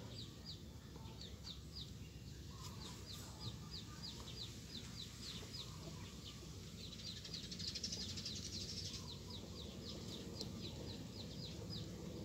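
Birds chirping: a long run of short, high, quick downward chirps, about three a second, with a brief buzzy hiss about eight seconds in.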